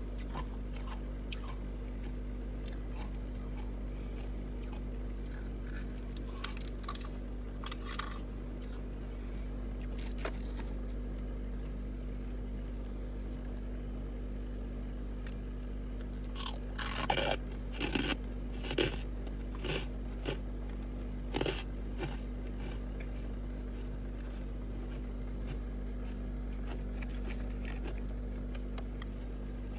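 Chest-freezer frost ice being bitten and crunched close to the microphone: scattered crunches, then a run of louder crunches just past the middle. A steady low hum runs underneath.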